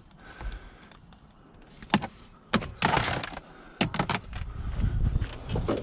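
A few sharp knocks and clunks, a burst of rustling about three seconds in, then a low rumble with more knocks from about four seconds on.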